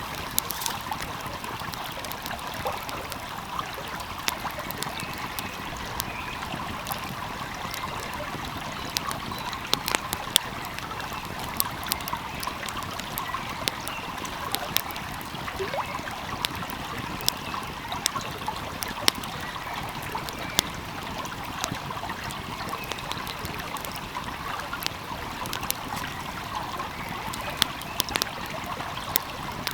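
Flowing stream running steadily, with frequent sharp crackles and pops from a burning wood fire scattered irregularly over it.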